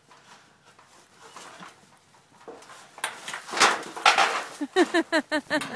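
A loud scuffle in the bull pen, then a person laughing in a quick run of short bursts near the end.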